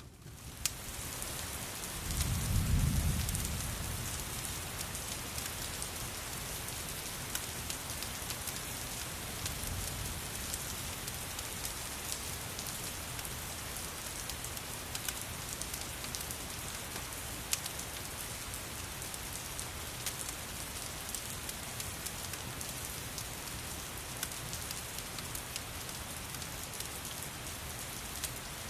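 Steady rain pattering, with a low rumble of thunder swelling and fading about two to four seconds in and a fainter rumble about ten seconds in.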